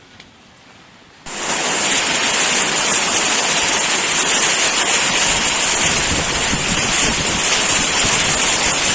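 Loud steady rushing of heavy rain and wind, starting suddenly about a second in.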